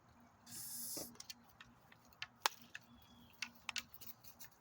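Sharp, irregular clicks and knocks from a pit bull puppy tugging and shaking a toy on a homemade spring pole, with a brief rushing hiss about half a second in.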